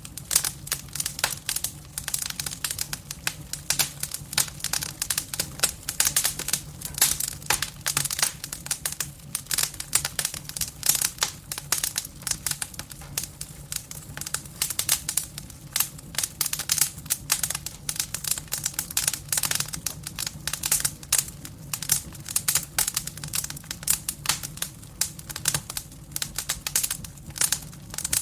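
Firewood burning in a fireplace, crackling with dense, irregular snaps and pops over a steady low hum.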